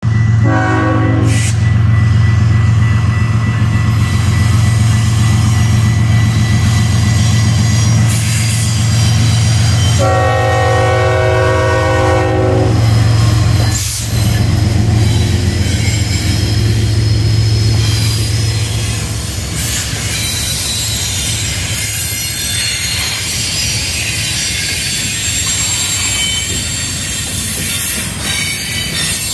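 Two GE Evolution-series diesel locomotives passing with a steady deep engine drone, sounding the air horn twice: a short blast right at the start and a longer one about ten seconds in. About twenty seconds in, the engine drone eases off, leaving the steady rumble of the intermodal container cars rolling past.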